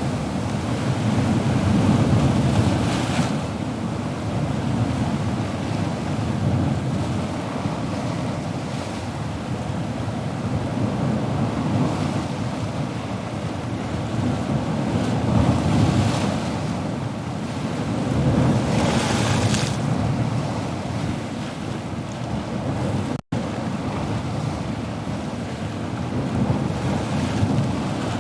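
Ocean surf: a steady low rush of waves, with several louder waves breaking and hissing up the shore. The sound drops out for a split second late on.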